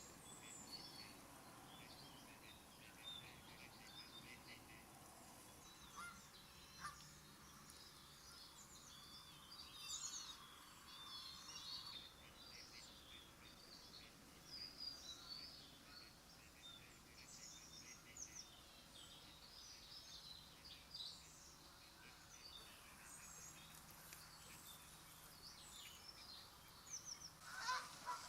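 Small birds calling and singing, many short high chirps scattered throughout, over faint background noise. Near the end, geese start honking.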